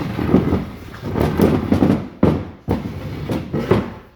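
Loud, irregular clattering and knocking: handling noise as the camera is picked up and moved to a new spot.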